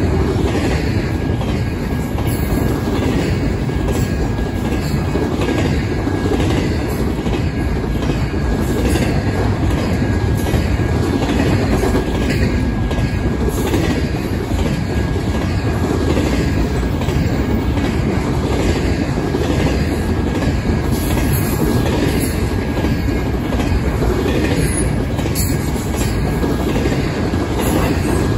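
Double-stack intermodal container train passing close by at speed: a steady heavy rumble of wheels and well cars on the rail, with a regular clatter of wheels over rail joints about twice a second and a thin steady high tone over it.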